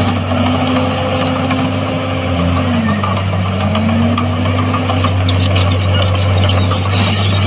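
Heavy construction machinery's diesel engine running steadily with a deep hum, its pitch dipping briefly about three seconds in and then coming back up.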